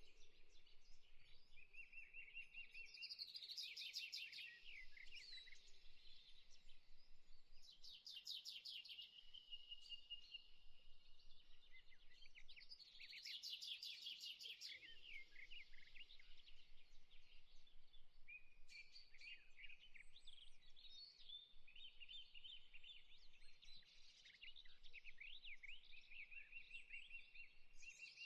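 Faint birdsong: several small birds chirping and twittering, with a fast trill breaking in every five seconds or so.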